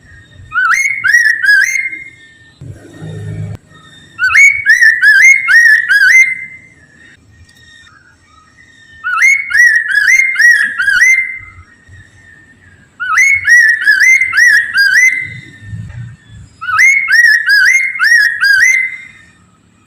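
Chinese hwamei (poksay mandarin) singing loud phrases of repeated rising whistled notes, four or five notes to a phrase. It sings five phrases of about two seconds each, with pauses of a second or more between them.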